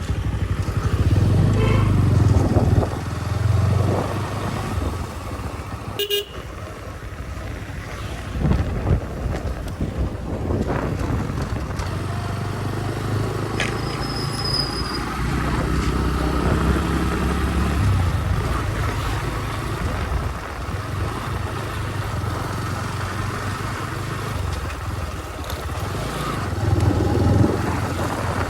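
Motorcycle engine running while riding, its revs rising and falling, with a brief horn toot.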